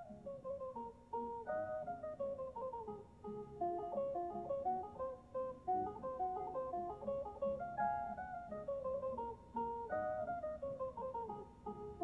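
Background music: a plucked guitar playing quick picked melodic runs.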